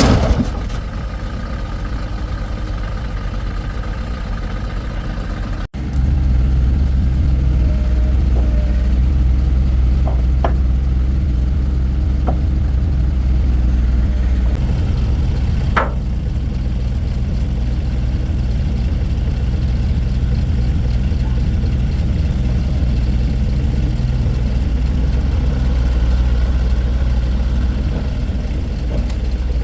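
Vehicle engine idling steadily with a low, even hum, joined by a few short clicks. About six seconds in the sound cuts and comes back louder; before that a quieter steady running sound with a faint whine.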